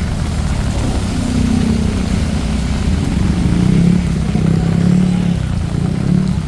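Road traffic in heavy rain: vehicle engines running close by with a low hum that swells through the middle, over a steady hiss of rain.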